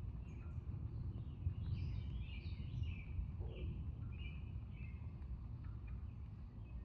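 Songbirds chirping in short, repeated phrases over a steady low background rumble.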